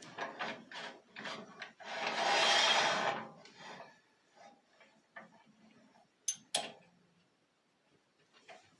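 A tool scraping against the mulberry wood of a hollow-form vase: several short scraping strokes, then one longer, louder scrape about two seconds in. Two sharp clicks follow a few seconds later.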